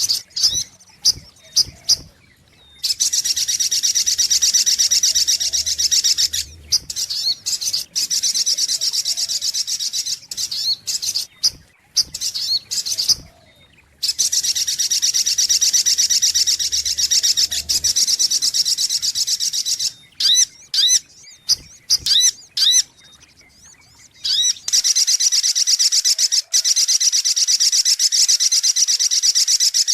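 Little spiderhunter (sogok ontong) lure-call recording: long, rapid, high trills lasting several seconds each, alternating with runs of short, sharp separate notes.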